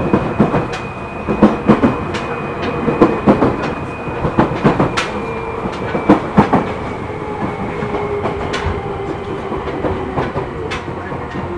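A Seibu New 2000 series electric train heard from inside the car, wheels clacking sharply over rail joints and points through the first several seconds. A humming tone then slowly falls in pitch under the steady running noise as the train slows.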